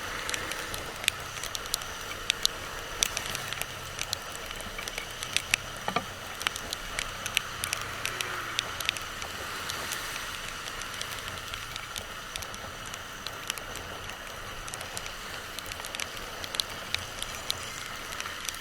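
Motorcycle ride noise: a steady hiss with a faint low engine hum, broken by many irregular sharp ticks and pattering.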